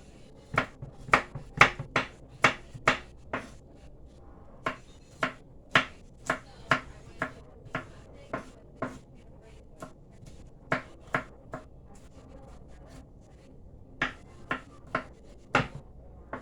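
Garlic being mashed by hand: a series of sharp knocks, about two a second, with a couple of short pauses.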